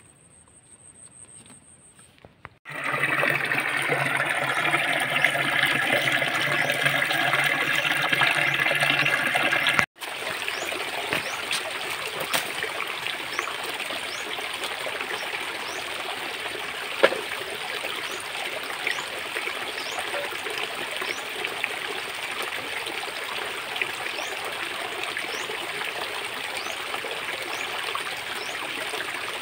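Shallow stream trickling over stones. A louder, closer rush of water starts about three seconds in and breaks off abruptly near ten seconds; after that a steadier trickle goes on, with an occasional small splash.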